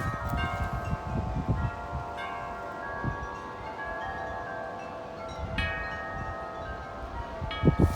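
Large tubular wind chimes clanging in strong gusty wind: clusters of strikes every second or so, their tones ringing on and overlapping. Low wind rumble on the microphone underneath.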